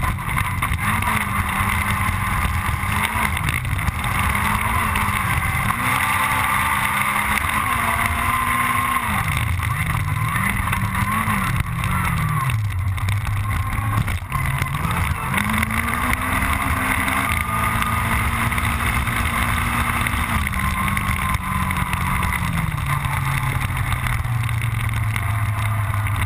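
Honda Civic Type R rally car's four-cylinder engine at full throttle, its pitch climbing and then falling sharply again and again as the driver shifts through the gears and lifts for corners. Near the end it steps down through several lower notes.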